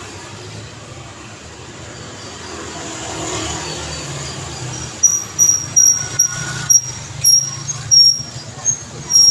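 Road traffic running steadily. From about halfway through comes a run of about nine short, sharp, high-pitched squeaks roughly half a second apart, louder than the traffic.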